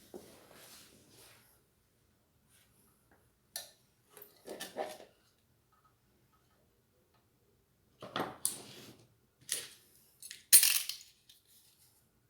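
Small parts being handled during ceiling fan assembly: intermittent rustling and metallic clinking, with a sharp clack near the end.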